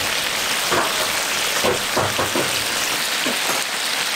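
Stir-fry sizzling steadily in a wok, with a few short knocks now and then.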